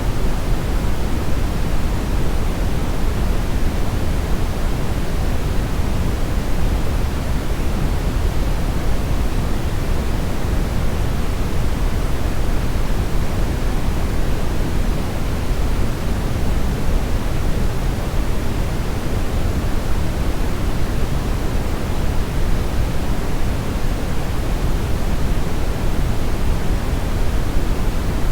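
Steady, unchanging brownish noise: an even hiss weighted toward the deep end, with no tones or events.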